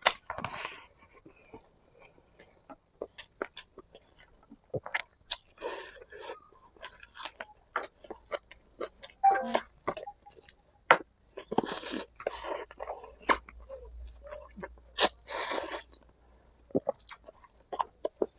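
Close-miked chewing and biting of spicy braised pig feet: irregular wet mouth clicks and smacks.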